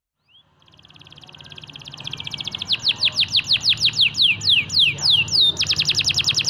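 Domestic canary singing, starting about half a second in. Its song is a fast rolling trill that swells in loudness, then a run of slower downward-sweeping whistled notes, then a fast trill again near the end.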